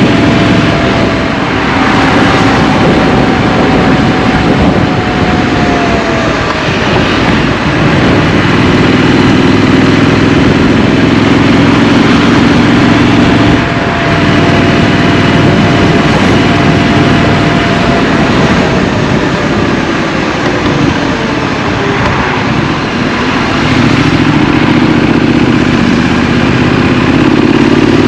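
Scrambler motorcycle engine heard from the rider's position while riding in city traffic, over a steady rush of noise. The engine note eases off and drops in pitch twice, about six seconds in and again around twenty seconds in, then pulls up again near the end.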